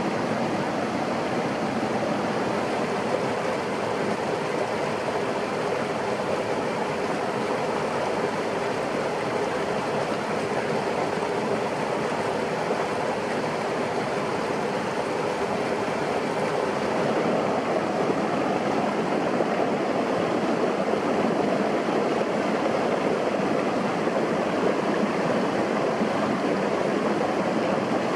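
Steady rushing of running water, growing a little louder about two-thirds of the way through.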